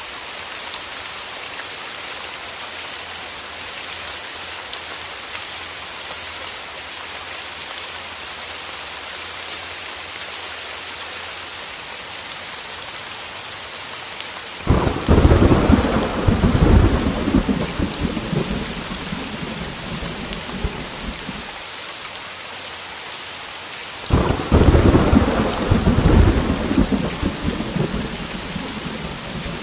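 Steady heavy rain hissing, with two thunder claps that crack in suddenly, one about halfway through and another near the end, each rumbling away over several seconds.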